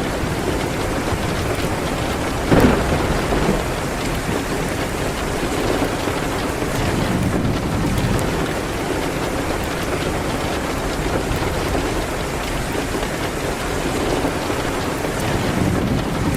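Steady rain on a window, mixed with a fireplace fire. One sudden loud crack comes about two and a half seconds in and dies away over about a second.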